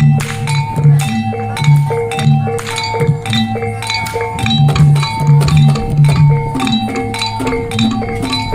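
Traditional Javanese reog percussion ensemble playing a steady repeating pattern: pitched struck notes alternating in a loop over a dense run of drum strikes.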